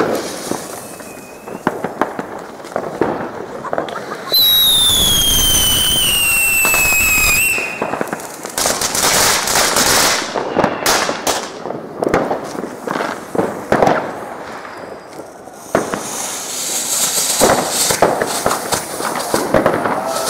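Fireworks going off: a loud whistling firework sounds for about three seconds, its pitch sliding slowly downward, among a run of sharp firecracker bangs and crackling.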